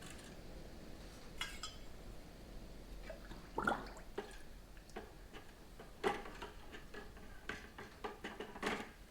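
Small metal parts and wire clinking and knocking against a container as they are set into a bath of de-rusting solution, with a little liquid noise. The knocks are irregular and scattered, with the loudest about three and a half seconds in and again about six seconds in.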